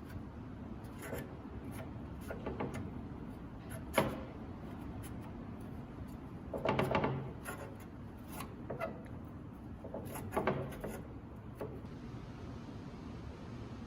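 Handling sounds on a workbench: scattered light taps and scrapes, one sharp knock about four seconds in, and two short bouts of rubbing a little after the middle and again near the end.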